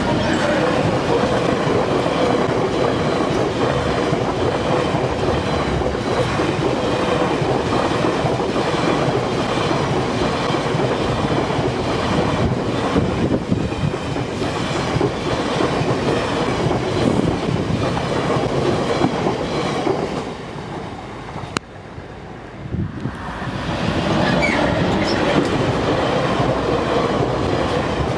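GBRf Class 66 diesel freight locomotive passing close by at speed, followed by a long train of covered hopper wagons running past, their wheels rumbling on the rails. The noise stays loud throughout, easing briefly a little after twenty seconds in.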